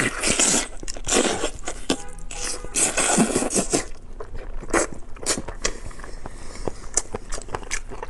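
Close-miked biting and chewing of braised pig's head meat, a pig's snout: dense crackly chewing for the first four seconds or so, then sparser sharp clicks and smacks.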